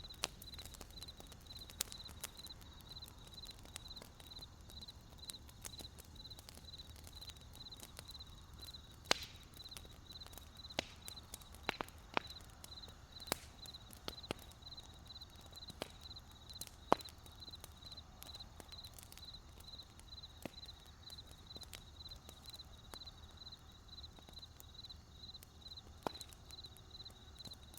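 Campfire of burning firewood crackling and popping with irregular sharp snaps, over a low steady rumble. Crickets chirp steadily throughout, a high pulsed trill about three times a second.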